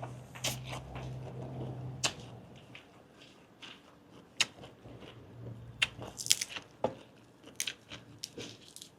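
Close-miked chewing of grilled giant octopus tentacle: irregular wet mouth smacks and clicks, denser in the second half.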